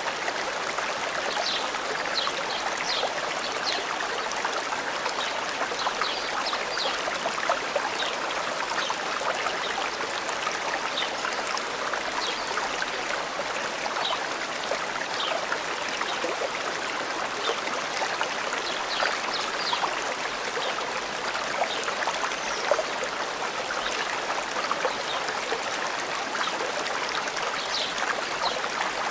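Forest stream flowing steadily, a continuous rush of water, with brief high bird chirps in small clusters now and then.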